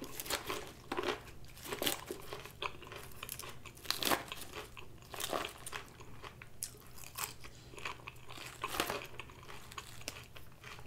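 Close-miked mouth sounds of someone chewing a crisp lettuce salad: irregular crunches and wet chewing.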